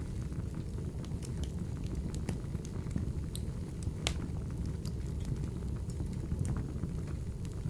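Wood fire burning in a wood-burning stove: a steady low rumble of the flames with scattered sharp crackles and pops, the loudest about four seconds in.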